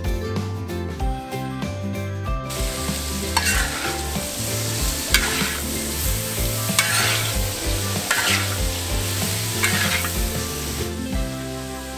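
Shrimp, pineapple and green onions sizzling in ghee on a steel plow-disc discada, stirred with a metal wok spatula. From about three seconds in, the spatula scrapes across the pan about every second and a half.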